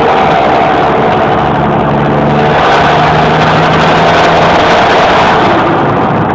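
John Deere 6820 tractor's six-cylinder diesel engine running with no muffler, loud and steady, its engine note shifting slightly about a second and a half in.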